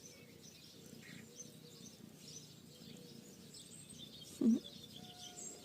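Small birds chirping over a quiet outdoor background, with one short, louder low sound about four and a half seconds in.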